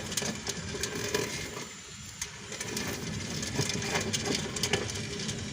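Worn rear wheel bearing of a 2010 Kia Soul grinding and rattling with irregular clicks and pops as it is rocked back and forth: the sign of a bad wheel bearing. The noise eases briefly about two seconds in.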